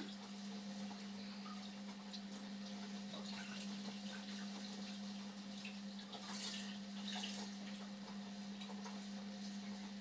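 Indesit washing machine running a 30 °C sport wash cycle: water splashing and trickling in the drum over a steady low hum.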